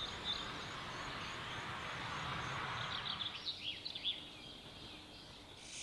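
Outdoor woodland ambience: a steady background hiss with small birds chirping, most clearly as a quick run of chirps about three and a half seconds in.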